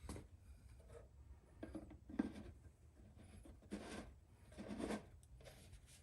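Faint rustling and scraping of things being handled, in short bouts, with one sharp tap about two seconds in, over a low steady hum.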